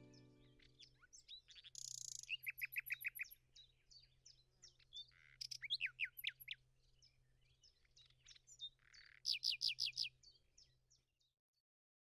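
Songbirds chirping and singing, with many quick downward-sweeping notes and rapid runs of five or six notes, stopping about eleven seconds in. The tail of background music fades out at the start.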